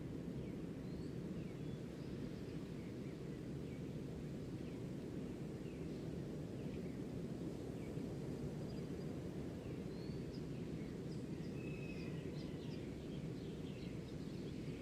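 Nature ambience: faint birds chirping with short calls and quick downward glides, busier near the end, over a steady low rumbling noise.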